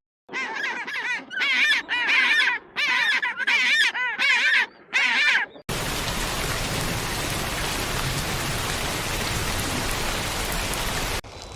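A bird calling in a quick series of about eight short, warbling chirps, then an abrupt cut to a steady, even hiss like rain.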